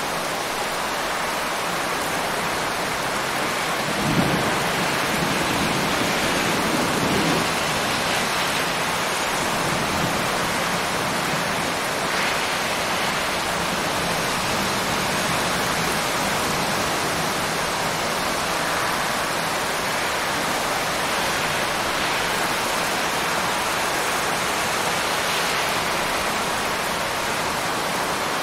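Steady rain, with a low rumble of thunder a few seconds in.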